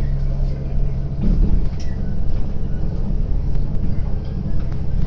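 Inside a diesel railbus under way: steady engine drone with wheels rumbling on the rails. The engine's steady note shifts about a second in.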